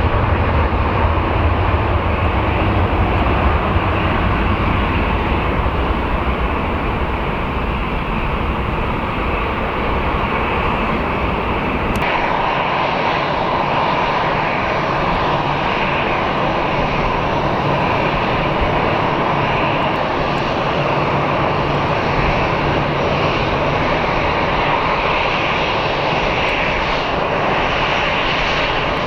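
Jet airliner engines during a wet-runway takeoff: a Bombardier CRJ-1000's turbofans give a heavy, deep rumble. About twelve seconds in, the sound cuts to an Airbus A319's engines, a steady jet noise with less low rumble and more hiss.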